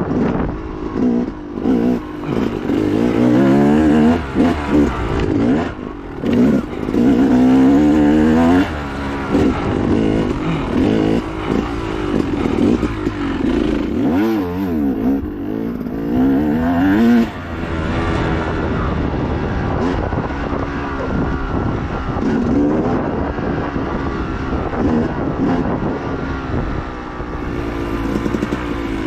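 Dirt bike engine ridden hard off-road, revving up and down as the throttle is opened and closed over and over, with a brief throttle-off about six seconds in and again around fourteen seconds.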